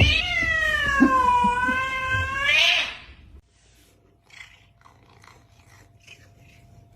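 A cat's long, drawn-out yowl lasting about three seconds. Its pitch dips in the middle and rises again just before it stops, followed by only faint short sounds.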